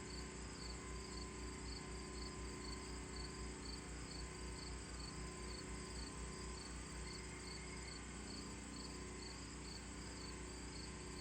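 Insect chirping: a short, high chirp repeated about twice a second, steadily, over a low background hum.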